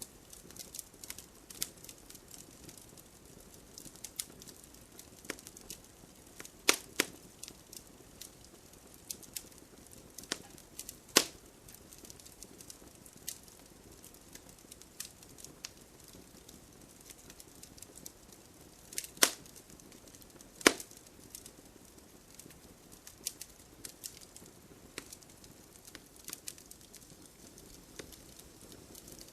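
Wood campfire crackling: irregular sharp snaps and pops over a faint steady hiss, with a few louder pops about 7, 11, 19 and 21 seconds in.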